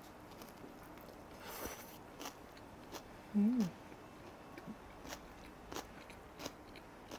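A person biting and chewing a battered gochu-jeon (stuffed chili pepper pancake), with soft wet mouth clicks scattered throughout. A brief hummed voice sound, rising then falling, comes about halfway through.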